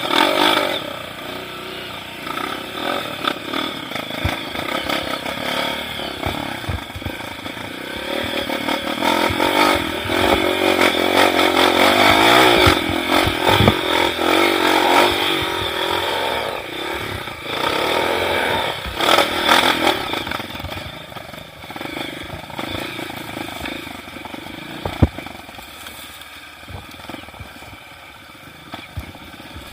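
Off-road trail motorcycle engine running as it is ridden, the revs rising and falling. It grows loudest in the middle and eases off toward the end.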